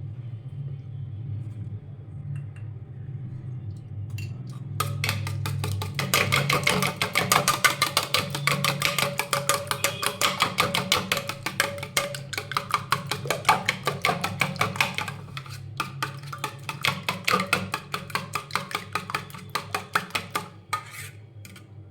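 Egg being beaten with a fork or spoon in a bowl: rapid, rhythmic clicking of metal against the bowl, starting about five seconds in.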